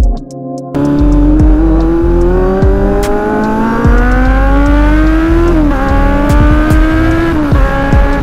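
Motorcycle engine pulling under hard acceleration, its pitch climbing steadily, with a quick drop at an upshift about five and a half seconds in and another near the end, over wind rush on the microphone. Electronic music plays briefly and cuts off within the first second.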